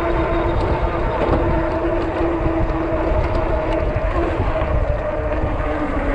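Bike's motor running with a steady whining hum that sags slightly in pitch about four seconds in, under heavy wind rumble on the microphone.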